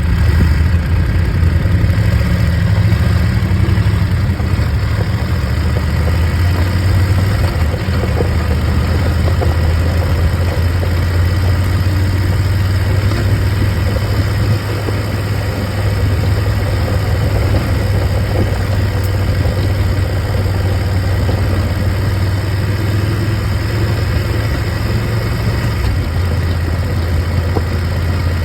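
Motorcycle engine running steadily, with a deep, even note and a broad rush of noise around it; it drops slightly in loudness about halfway through.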